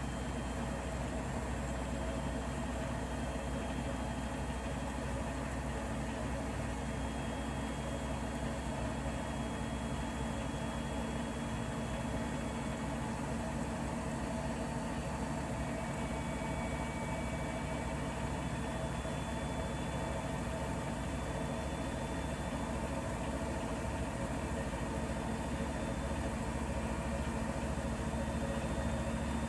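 Bosch Serie 4 washing machine running mid-way through a 90-degree cotton wash cycle: a steady mechanical hum with faint high tones that drift slowly.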